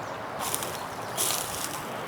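Steady rush of flowing river water, with two short hissing rustles about half a second and a second and a quarter in.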